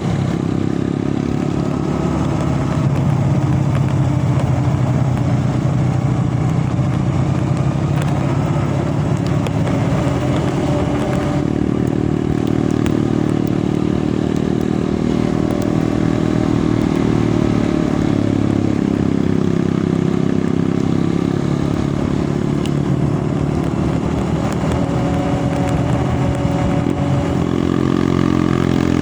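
Vehicle engine running under way, its pitch rising and falling with the throttle and a clear change about eleven seconds in, with rattles and clatter over the noise of travel.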